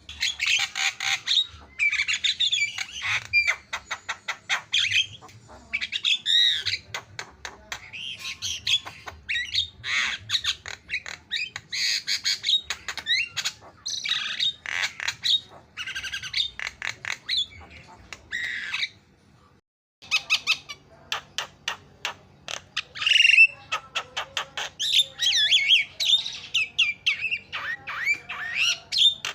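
Javan myna (jalak kebo) singing fast and continuously: a rapid run of harsh squawks, chattering notes and short whistles, with a pause of about a second about two-thirds of the way through before it starts again.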